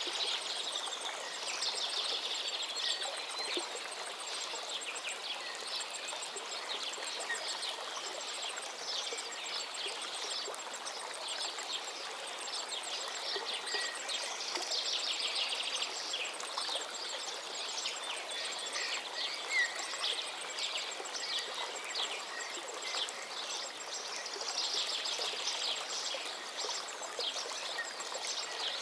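Many small birds chirping and twittering in overlapping bursts over a steady background hiss, with a thin, fast ticking high above.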